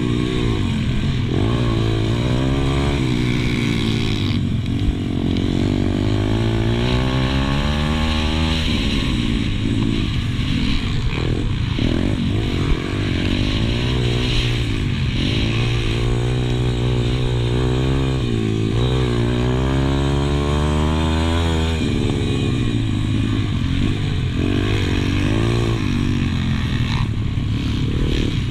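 Pit bike engine heard on board while racing, revving up and down again and again as the throttle is opened and shut through the corners. Twice it climbs in pitch for a longer pull, and the second climb ends in a sudden drop off the throttle.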